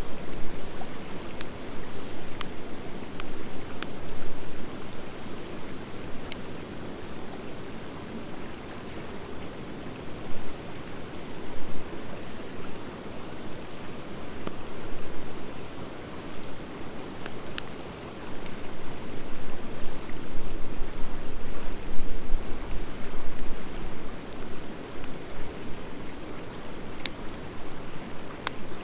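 Wood fire of driftwood and dry hardwood burning in a fire pit: a steady rushing flame noise that swells and ebbs, with scattered sharp crackles and pops from the hardwood, several close together in the first few seconds and a few more later.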